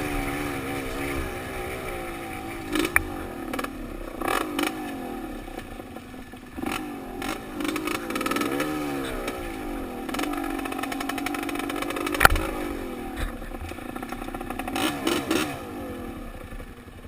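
Off-road trail motorcycle engine heard from the rider's helmet, its pitch rising and falling as the throttle opens and closes. Sharp knocks and rattles from the bike over rough ground break in throughout, the sharpest about twelve seconds in, and the engine sound drops away near the end.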